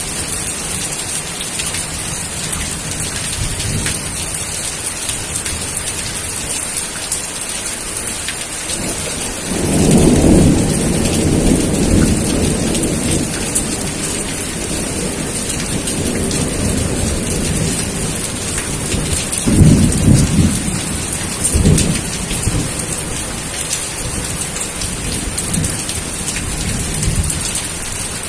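Steady rain falling, with thunder: a long rolling rumble about ten seconds in, then two shorter, louder claps around twenty seconds in.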